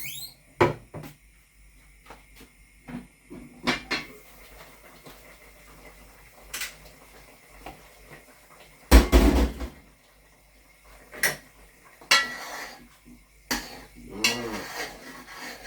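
Kitchen clatter of pots, lids and cooking utensils being handled: scattered clinks and knocks, the loudest a heavy knock about nine seconds in.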